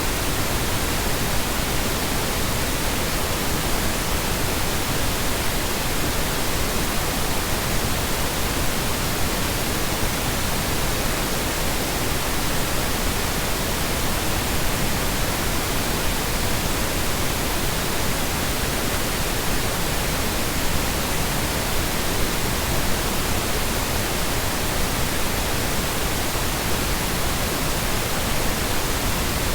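Continuous synthetic colour noise, sold as Brownian noise: an even, unchanging hiss and rumble spread over the whole range, with no loops, events or shifts in level.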